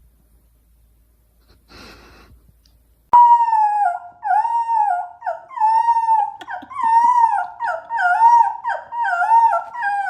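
Dog howling and whining in a high, wavering voice, the pitch dipping and rising in repeated short phrases about once a second; it starts abruptly about three seconds in, after a brief rustle. This is the dog's insistent call to wake its owner.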